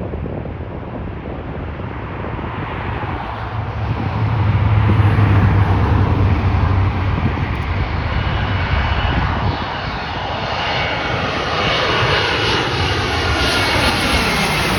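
Airliner jet engines roaring as a United Airbus A320 passes low on its landing approach. The sound is heaviest about four to seven seconds in, then its whine sweeps in pitch as the aircraft goes by.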